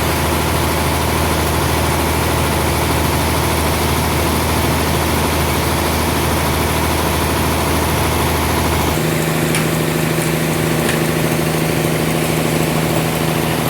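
Sawmill machinery engine running steadily with a loud, constant hum. About nine seconds in, its tone changes suddenly to a different pitch, and a few faint clicks follow.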